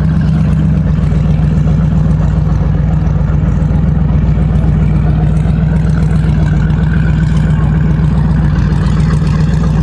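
An engine running steadily at an even low pitch, without revving up or down.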